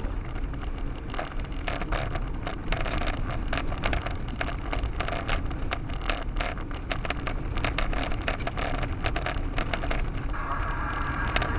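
Car driving over a rough detour road, heard from inside: a steady low road-and-engine rumble with dense, irregular crackling and rattling from the surface under the tyres. About ten seconds in a steady hiss joins it.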